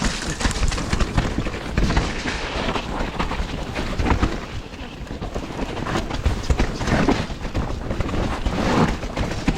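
Mountain bike rattling and clattering as it is ridden over a wet, muddy woodland trail: irregular knocks and clicks from the bike over a constant low rumble of tyre and wind noise.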